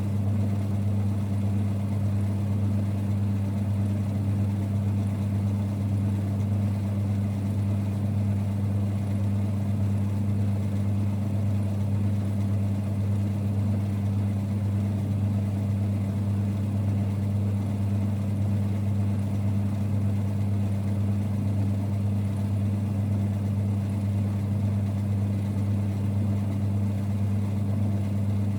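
1946 Boxford lathe running at a constant speed, a steady low rumble and hum from its motor and drive that never changes.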